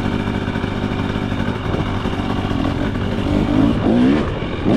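KTM 300 XC two-stroke dirt bike engine running at low, easy throttle while being ridden for break-in, with a couple of short revs rising in pitch about three and a half to four seconds in.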